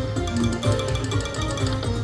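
Poker machine playing its electronic feature music: chiming, xylophone-like notes over a steady low beat, as the free spins begin.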